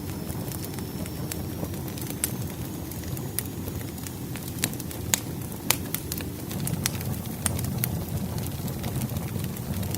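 Wood fire burning: a steady low rush with irregular sharp crackles and pops from the burning logs.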